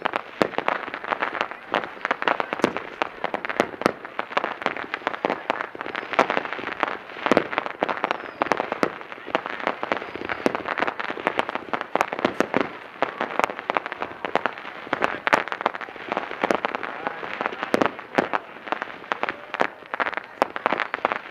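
Fireworks display going off without pause: a dense run of sharp pops and crackles with louder bangs mixed in.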